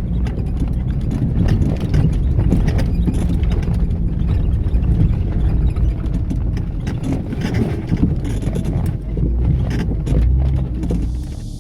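A vehicle engine runs steadily under load while the vehicle travels over a rough dirt track, with frequent knocks and rattles as it bounces.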